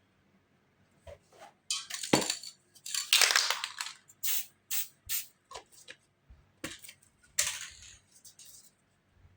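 Aerosol spray paint can hissing in a series of short bursts, the longest about a second, with a few sharp knocks and clicks in between.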